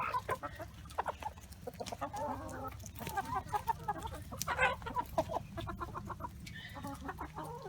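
Backyard hens clucking: a scatter of short calls from several birds, busiest about three and five seconds in.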